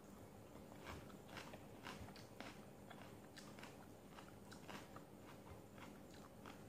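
A person eating: faint chewing and biting on vegetables, with many short, irregular crunches.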